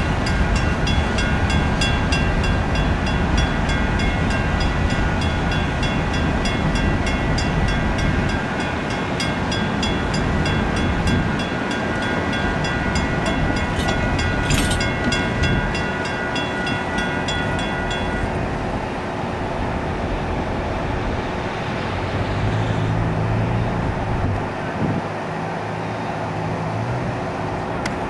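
Loaded hopper cars of a freight rock train rolling past with a steady wheel-on-rail rumble, while an electronic grade-crossing bell rings in an even pulse. The bell stops about two-thirds of the way through, leaving the lighter rumble of the departing train, and a low engine hum comes in near the end.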